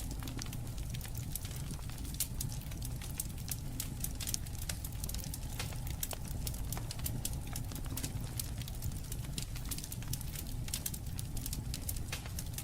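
Wood fire crackling: a dense, irregular stream of sharp pops and snaps over a low, steady rumble.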